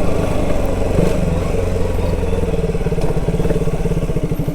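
Motorcycle engine running at low speed and slowing down, its firing pulses turning into an even, slower chug in the second half, like an idle.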